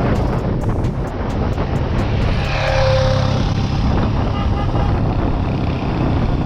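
Road noise while riding an electric dirt bike in traffic: steady wind and tyre rumble, swelling louder about halfway through as a vehicle goes by.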